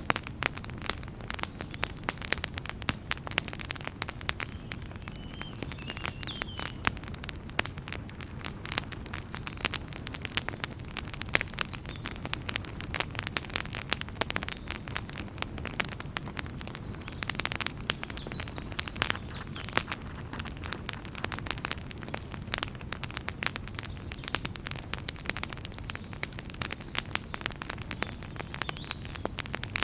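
Fire burning in a fireplace, crackling and popping irregularly over a steady low rumble of the flames.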